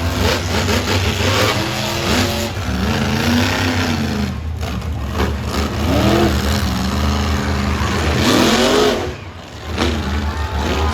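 Monster truck engines revving hard over a steady low drone, the pitch rising several times as the throttle is opened. The level dips briefly near the end.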